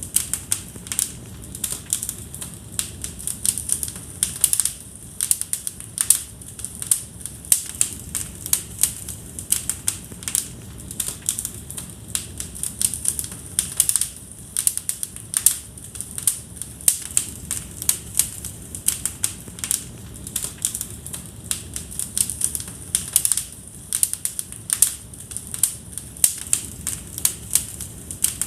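Wood fire burning in a fireplace, crackling with frequent irregular sharp pops over a low steady rush of the flames.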